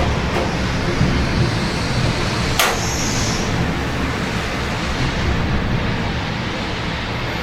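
Steady rain with a low rumble of city traffic, and one sharp click about two and a half seconds in.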